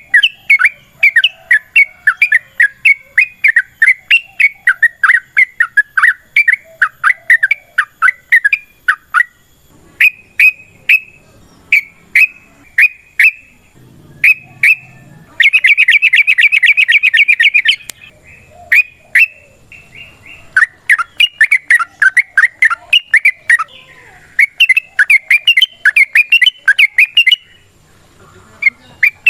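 Yellow-vented bulbul (trucuk) singing in long, chattering runs of short bubbly notes, several a second, broken by short pauses. About halfway through comes a dense, very fast trill of about two seconds, the rapid-fire 'ropel' phrase that bird keepers prize.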